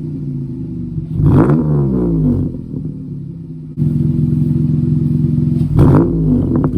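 Dodge Challenger SXT's 3.6-litre V6 with an aftermarket exhaust and Airaid cold air intake, revved twice, once about a second in and again near the end, falling back to a steady idle between. About halfway through the idle steps suddenly louder.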